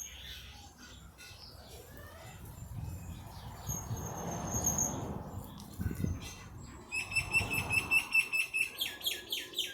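A songbird singing: a high whistled note, then rapid high chirps that run into a fast trill of about six notes a second near the end.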